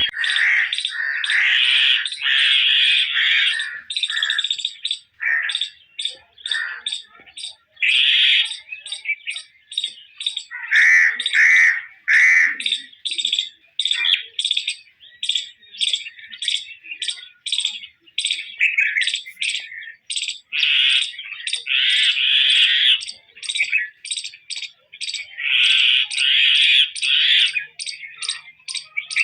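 Bird chirping continuously, a fast stream of short, sharp notes mixed with longer scratchy, squawky phrases.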